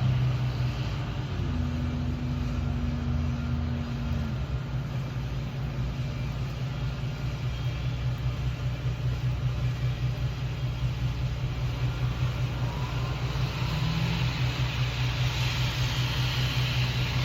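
Steady low motor hum with a fine rapid pulse, joined for a few seconds near the start by a higher steady tone.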